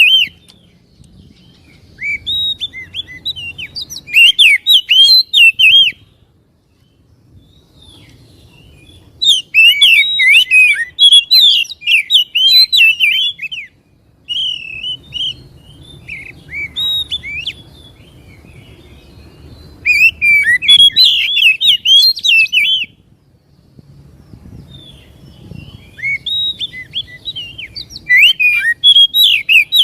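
Oriental magpie-robin (kacer) singing in bouts of rapid, varied whistled phrases, with pauses of a second or two between bouts.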